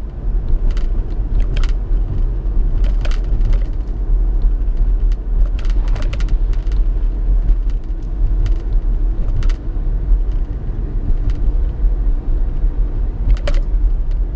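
Car being driven at steady speed: a constant low engine and road rumble with a few faint scattered clicks.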